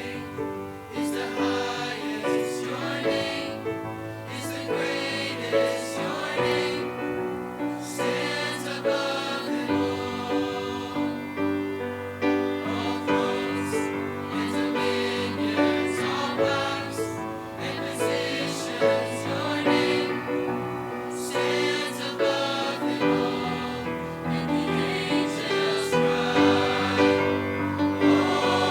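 A mixed choir singing a gospel worship song with instrumental accompaniment.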